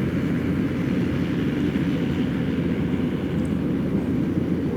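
Rice combine harvester running steadily, its engine and machinery churning out a dense, even drone while it cuts rice.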